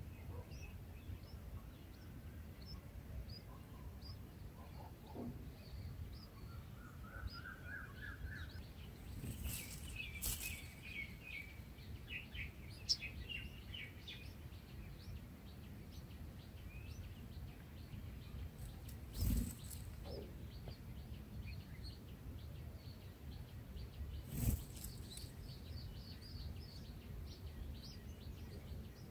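Scattered high bird chirps over a steady low outdoor background hum. There is a short rising trill about seven seconds in and a quick run of chirps about ten to thirteen seconds in. Three brief knocks come at about ten, nineteen and twenty-four seconds.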